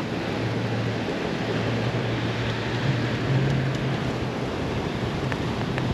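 Steady storm noise: strong wind buffeting the microphone and driving rain, with a low steady hum underneath.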